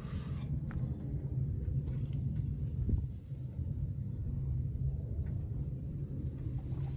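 A steady low rumble with a couple of faint clicks, about a second in and again about three seconds in.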